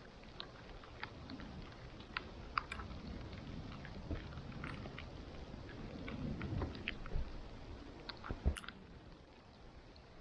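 Wood campfire crackling, with irregular sharp pops and snaps over a low rumble; the loudest pop comes about eight and a half seconds in.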